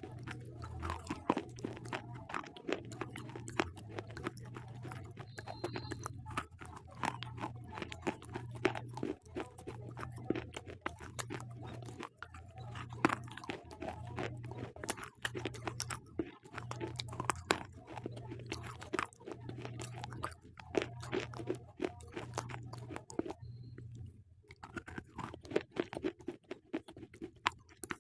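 Slate pencils being bitten and chewed close to the microphone: a dense, irregular run of sharp, dry crunches, with a brief pause near the end.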